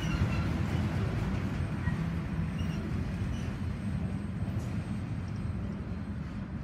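Freight train of autorack cars rolling past: a steady low rumble of steel wheels on the rails, with a few faint high squeaks.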